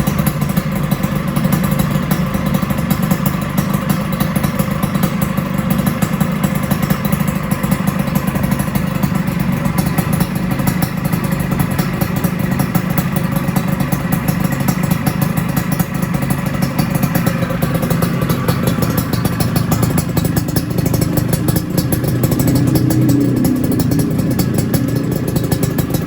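Suzuki Satria motorcycle engine running steadily through a locally made aftermarket exhaust, with a slight rise near the end.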